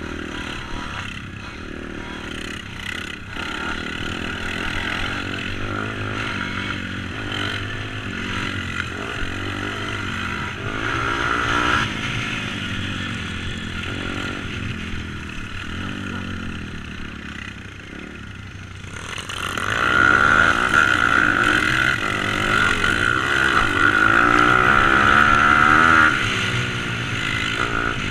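Race-tuned YX140 four-stroke engine in a Stomp Z140 pit bike being ridden, its pitch rising and falling again and again as it revs up and eases off. It gets much louder about two-thirds of the way through, then drops back near the end.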